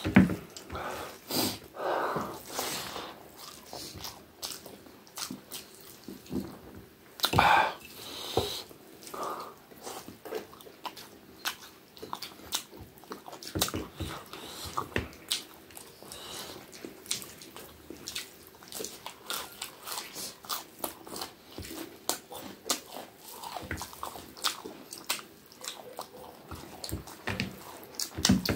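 Close-up eating sounds: wet chewing and lip-smacking, many short clicks in a row, with fingers squishing rice and curry gravy on the plate.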